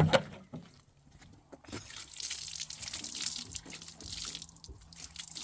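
Water dripping and splashing. A steady hiss of falling water starts suddenly about one and a half seconds in, after a single low knock at the very beginning.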